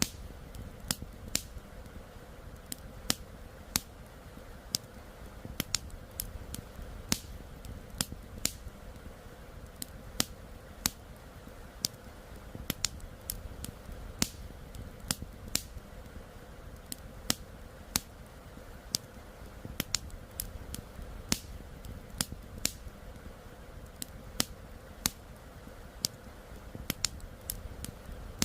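Campfire crackling: burning wood giving sharp, irregular pops, about two a second, some louder than others, over a low steady rushing background.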